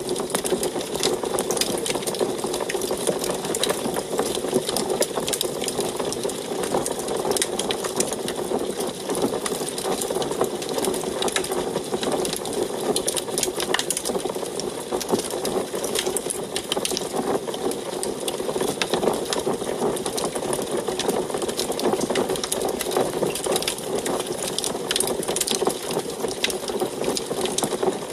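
Wood fire burning in an antique wood stove, crackling with dense, irregular pops and snaps over a steady low rush of flame.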